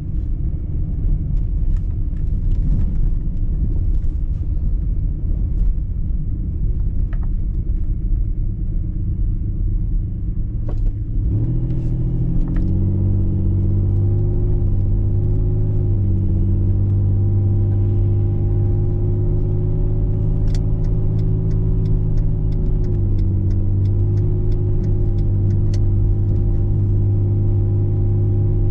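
Car driving, heard from inside the cabin: a low road rumble, joined about 11 seconds in by a steady engine drone that steps in pitch a few times. Near the end comes a run of light, quick clicks.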